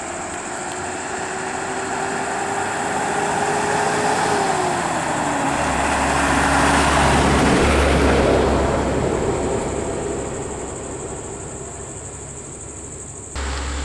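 A motor vehicle driving past: its engine note drops in pitch about four seconds in, and the engine and road noise swell to a peak about eight seconds in, then fade. The sound changes abruptly near the end.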